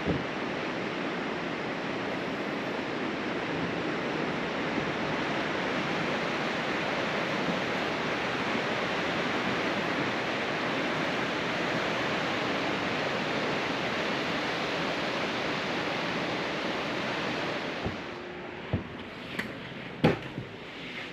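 Steady rushing noise that drops away about 18 seconds in, followed by a few sharp clicks and knocks.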